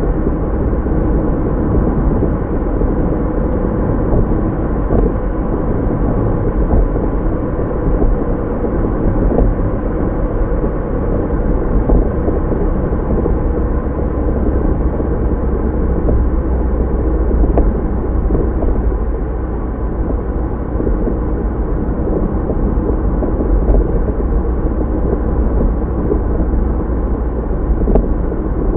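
Steady low rumble of a car on the move, tyre and engine noise heard from inside the cabin through a windscreen-mounted dashcam's microphone, with a few faint ticks.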